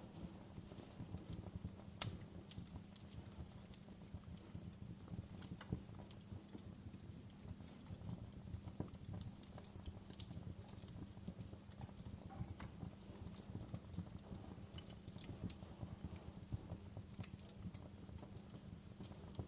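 Wood fire in a fireplace crackling: irregular sharp pops and snaps over a low, steady rumble of burning, with a few louder pops.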